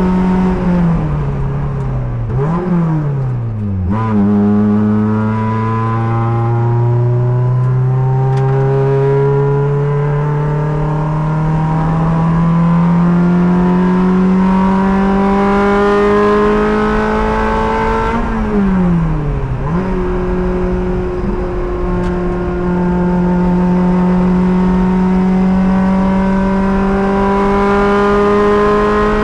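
A race car's engine running hard on a track, heard from inside the car. Its note climbs slowly and steadily over long stretches. Twice, about two to four seconds in and again near nineteen seconds, the pitch drops, jumps up briefly, then falls again as the driver lifts and shifts down for a corner.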